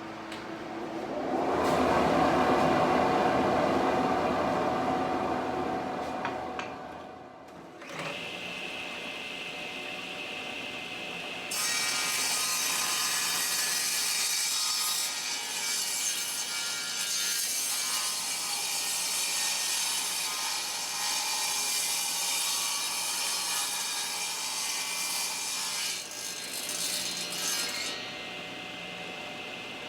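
A rushing noise in the first few seconds, then a table saw starts about eight seconds in with a steady whine. From about twelve seconds in its blade rips a shallow shaving off the edge of a very dense hardwood board for about sixteen seconds, loud over the motor. The saw then runs free again, its pitch sagging slightly near the end.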